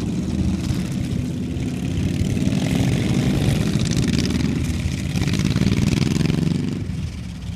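Motorcycles of an escort procession riding past, their engines running with the pitch bending up and down as they go by. The sound fades near the end.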